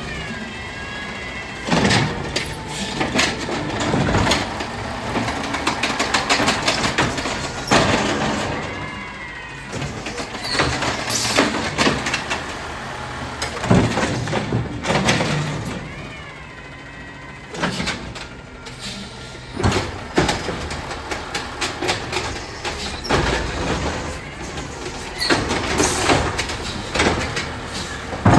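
Amrep garbage truck working a collection: its engine revs with a rising and falling hydraulic whine several times, amid repeated metal bangs and clatter from carts and the body's machinery.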